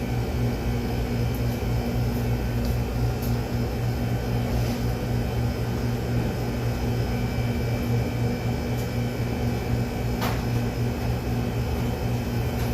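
Steady electric motor hum from an appliance, low and even, with a faint tick about ten seconds in.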